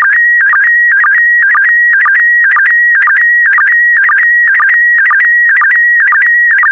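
SSTV PD120 image transmission signal: a loud, continuous electronic tone wavering near 2 kHz, broken by short lower sync blips that repeat evenly about twice a second, each marking the start of a new pair of scan lines.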